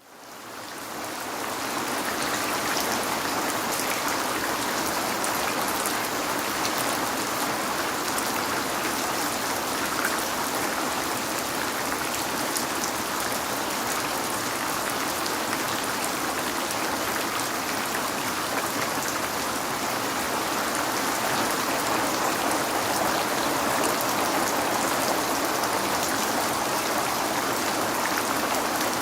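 Steady rain on a window, with scattered sharp drop ticks over a dense hiss of falling water. It fades in over the first second or so.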